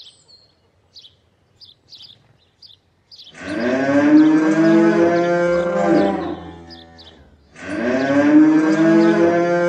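A cow moos twice, two long drawn-out lowing calls one after the other. Before them come a few faint, short high chirps.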